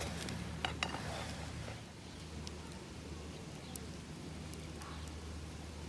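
Wood campfire crackling faintly: scattered small clicks and pops, more in the first two seconds, over a steady low hum.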